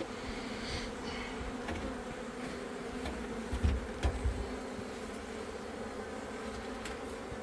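Many honeybees buzzing around an opened hive, a steady hum, with a few soft low bumps about halfway through.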